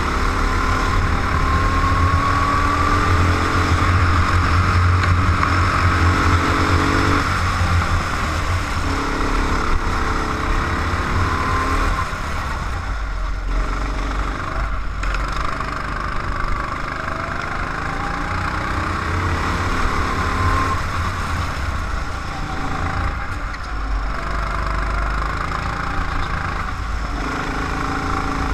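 Go-kart engine heard from on board, its pitch rising and falling again and again as the kart speeds up and slows for corners.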